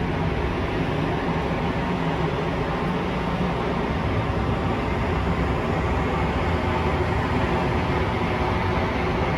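Steady, even background rumble and hiss with a faint low hum running under it, no distinct events.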